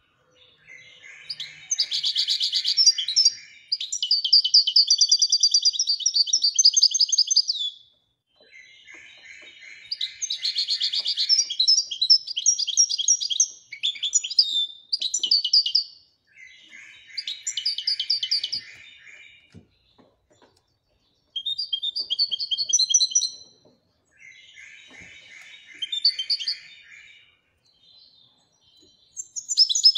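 A European goldfinch of the Moroccan 'Marrakchi' type singing in the 'widania' song style. It sings a run of fast twittering, trilling phrases of a few seconds each, separated by short pauses.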